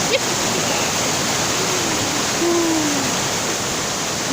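Waterfall rushing steadily: an even wash of falling water. A faint, drawn-out, voice-like tone falls slightly a little past halfway.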